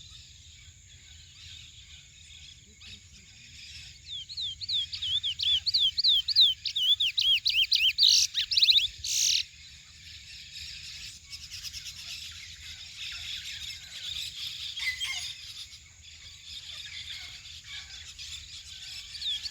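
Chestnut-bellied seed finch (curió) singing: a fast run of repeated high whistled notes, about four a second, starting about four seconds in and breaking off near the middle, followed by softer, quieter twittering.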